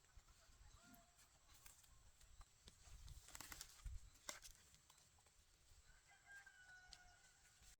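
A rooster crowing faintly in the distance near the end, over a few soft clicks and knocks.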